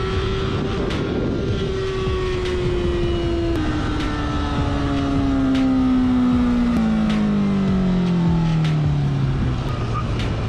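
Motorcycle engine running, its note falling steadily in pitch with two sudden drops, over road and wind rumble.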